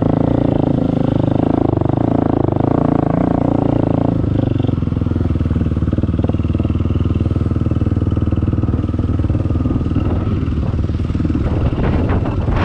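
Dirt bike engine running under way, its pitch rising and falling with the throttle for about four seconds, then settling to a lower, steadier note.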